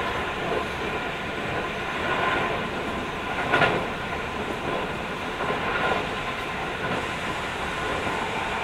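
Keio 5000 series electric train heard from inside a passenger car while running: a steady rolling rumble of wheels on rail, with one brief louder clack about three and a half seconds in.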